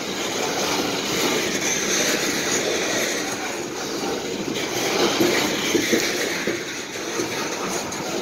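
Coal hopper cars of a freight train rolling past: steel wheels rumbling steadily and clacking over the rail joints, with a few sharper knocks about five to six seconds in.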